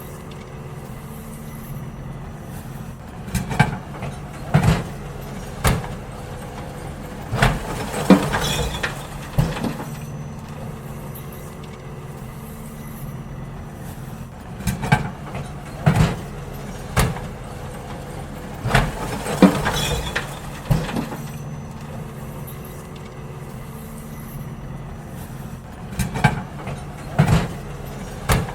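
Garbage truck running steadily at idle while emptying bins. Five groups of sharp bangs and clatters from the bins and lifting gear come every several seconds.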